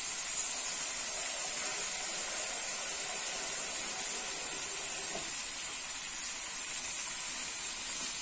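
Chicken pieces frying in oil in a wok, giving a steady sizzle.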